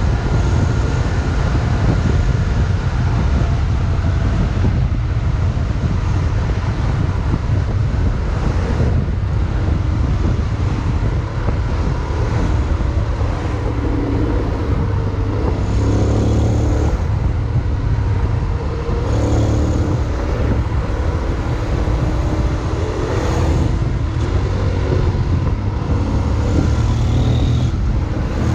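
Steady low wind rumble and road noise while riding a Honda X-ADV 750 in traffic, with a faint engine hum under it that shifts in pitch now and then.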